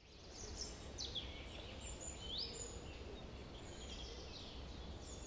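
Outdoor ambience of songbirds calling: a scatter of short high whistles and chirps, a couple of them sweeping upward, over a low steady rumble.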